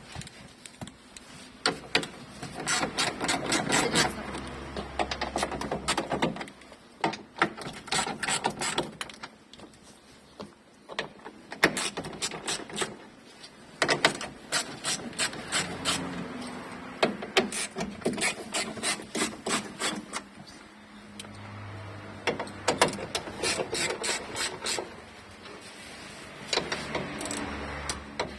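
Repeated bursts of rapid mechanical clicking from hand work on a car's sunroof mechanism, each burst lasting a second or two with short pauses between.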